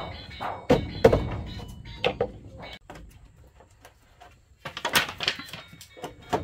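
A few sharp knocks and thuds, like objects being handled and set down, then a short burst of rustling or scraping about five seconds in.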